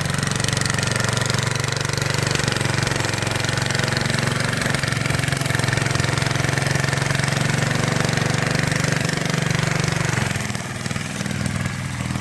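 Tractor engine running steadily at a constant speed, easing off slightly about ten seconds in.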